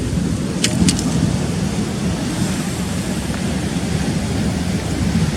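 Rough sea surging and breaking against the rocks, with wind rumbling on the microphone, a steady heavy noise throughout. Two short clicks a little under a second in.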